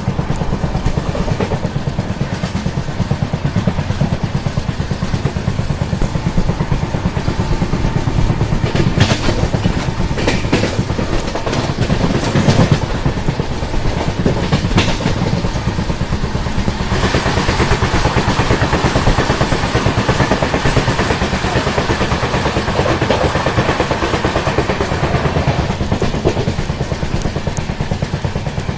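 Moving passenger train heard from an open coach door: a steady rumble of wheels on the rails, with a few sharp clacks about a third of the way in. Just past halfway the rushing sound grows brighter for several seconds.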